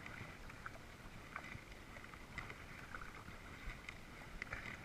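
Kayak on calm water: quiet paddle dips, drips and small splashes, coming as an irregular scatter of short ticks over a soft, steady wash of water.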